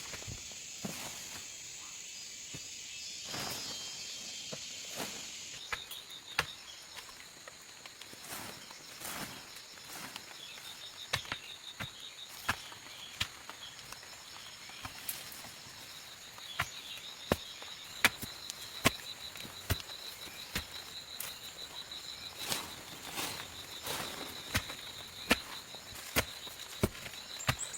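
Insects chirring steadily in high, even tones, with a scatter of sharp clicks and knocks that come more often and louder in the second half.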